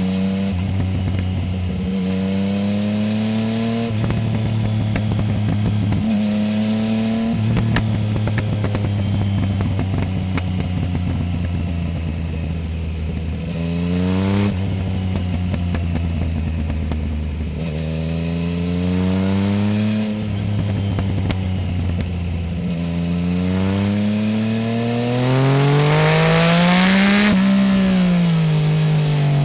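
Yamaha Tracer 900 GT's three-cylinder engine through a full aftermarket exhaust with no dB-killer, pulling up through the gears. The pitch climbs and drops at each upshift. Near the end it makes a long, loud pull that peaks and then falls as the throttle is rolled off.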